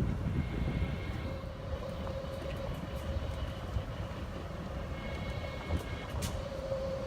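Golf cart riding along a trail: a steady low rumble with a constant motor whine, and occasional rattles and clicks.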